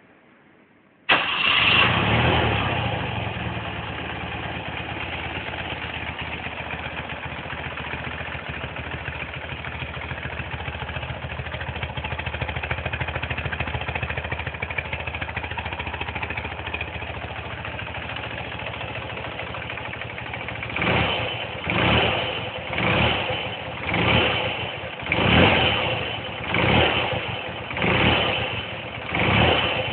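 1983 BMW R45's air-cooled flat-twin engine starting, catching abruptly about a second in and settling into a steady idle. Near the end the throttle is blipped about eight times, roughly once a second, each rev rising and falling back to idle.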